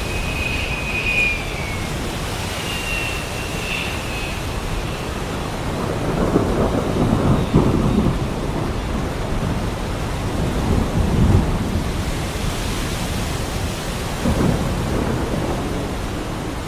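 Thunderstorm: heavy rain falling steadily, with rolls of thunder that swell about six seconds in, again around eleven seconds and near the end. A thin high whistling tone sounds over the rain in the first few seconds.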